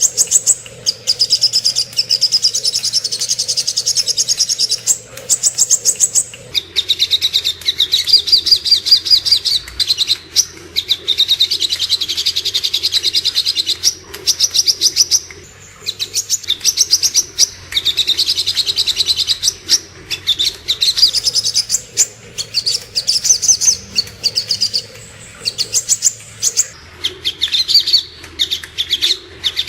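Sogok ontong birdsong: long runs of rapid, high, sharp chirps and trills, broken by short pauses every few seconds, over a faint low hum.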